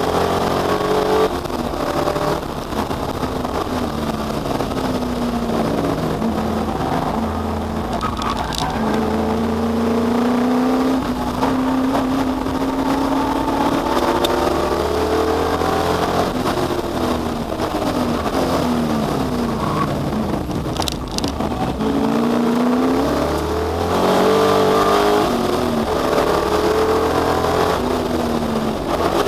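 V8 muscle car race engines at full throttle, pitch climbing and dropping again and again as they accelerate, change gear and lift off, with more than one engine heard at times.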